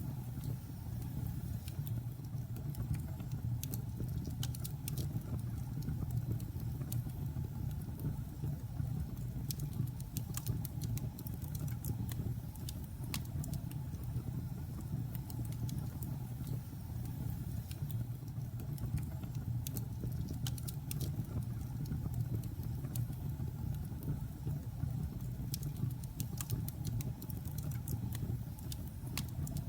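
Logs burning in a fireplace: a steady low rumble of the fire with scattered sharp crackles and pops at irregular moments.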